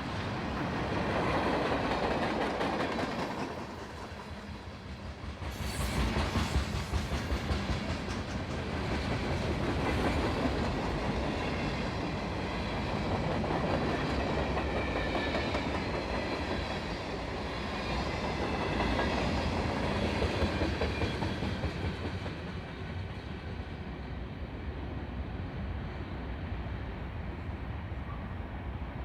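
CSX freight train's cars rolling past, steel wheels clicking rhythmically over the rail joints. The sound grows somewhat quieter and duller about three-quarters of the way in.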